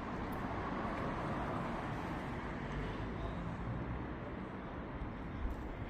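Steady city street ambience: a low traffic hum with voices faint in the background.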